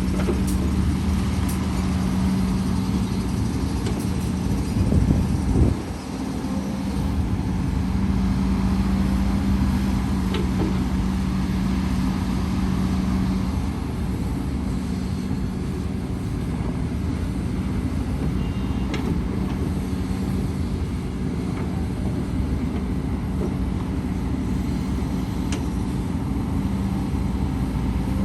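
Diesel engine of heavy earthmoving machinery running steadily, with a brief louder surge about five seconds in.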